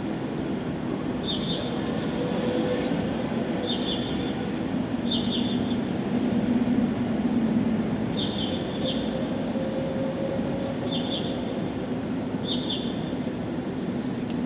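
Small birds chirping in short, high phrases that repeat about every second and a half, over a steady low rumble that swells slightly midway.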